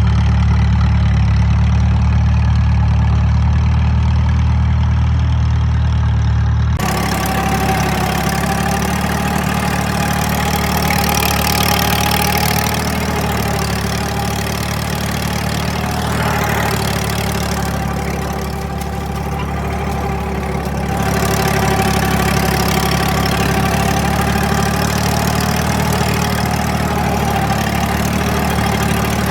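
1936 Case L tractor's four-cylinder engine running steadily. About seven seconds in, the sound switches abruptly to a noisier recording with the engine still running underneath.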